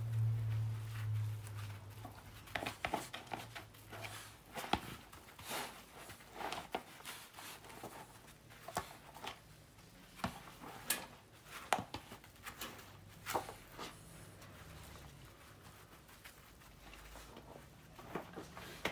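Irregular light taps and knocks from a dog playing with a ball on its own: ball bumps and paw steps in a small room. A low hum fades out in the first few seconds.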